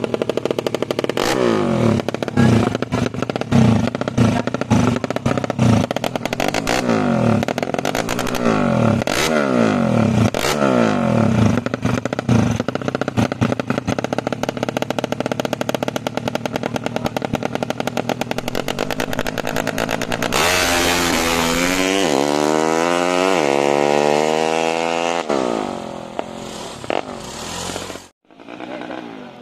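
Tuned Yamaha Jupiter 130 cc motorcycle engine revved in repeated blips, then held at high revs. About twenty seconds in its pitch climbs steadily for a few seconds, then the sound fades away.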